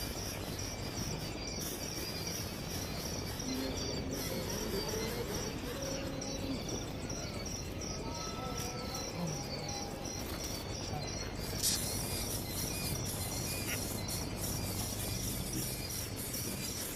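Insects chirping in a steady, evenly pulsing high trill, with a few short tonal calls or notes mixed in and one brief click about twelve seconds in.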